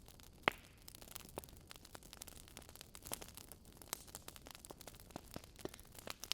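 Fire crackling in a fireplace: a steady scatter of small irregular pops and snaps over a faint hiss, with one sharper, louder pop about half a second in.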